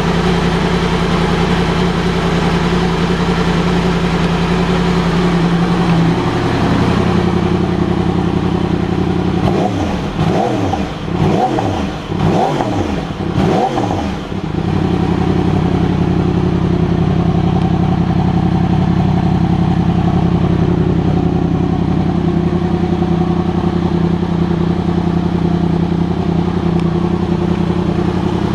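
2016 Yamaha R1M's crossplane inline-four engine with an Arrow Pro-Race titanium end can, revving while stationary. It holds a steady note that steps up about six seconds in. Midway it is blipped up and down about five times in quick succession, then settles back to a steady note.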